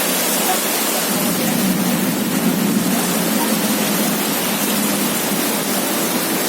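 Rain pouring down in strong wind, a loud, steady hiss.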